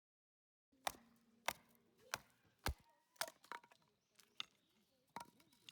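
Firewood being chopped: a quick series of sharp wooden knocks, about two a second, starting after a brief silence, the first few the loudest.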